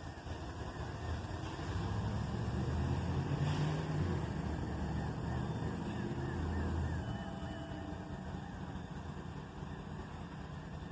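Diesel freight locomotives, a GE ET44AH and an SD70AC rebuild, running low beside the stopped train, louder for a few seconds in the middle. A faint, repeating warbling tone runs through the second half.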